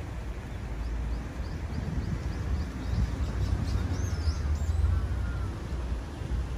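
Small birds chirping: a quick run of short high chirps and a couple of sweeping calls in the middle, over a steady low rumble of outdoor city noise.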